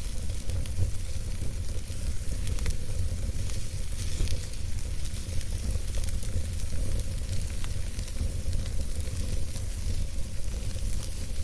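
Campfire burning with a steady low rumble of flames and frequent small crackles and pops of burning wood, scattered irregularly throughout.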